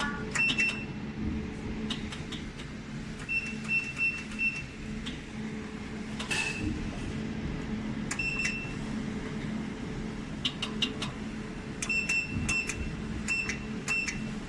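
Jewelry laser welding machine firing pulses: sharp ticks, several with a brief high ring, come in clusters of a few at a time. Under them runs a steady low machine hum.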